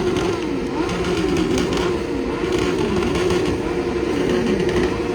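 Motorcycle engines revved over and over, each rev climbing and falling in pitch in under a second, over a steady engine drone.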